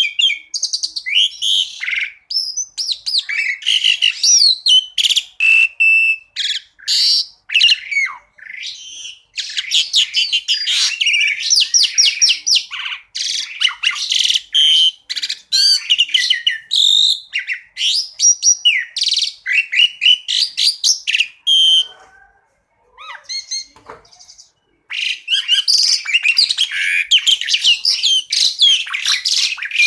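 Asian pied starling (jalak suren) singing a fast, varied song of rapid chirps, whistles and trills. A little past two-thirds of the way through, the song drops to a few quieter, lower notes for about three seconds before the dense song resumes.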